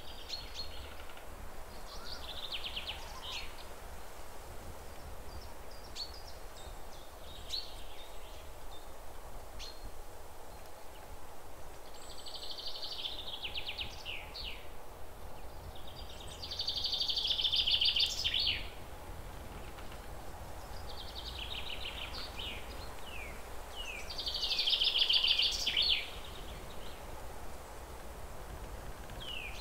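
Birdsong: a songbird sings short trilled phrases of quick down-sweeping notes every few seconds, with longer, louder phrases a little past halfway and again later on, over a steady low rumble.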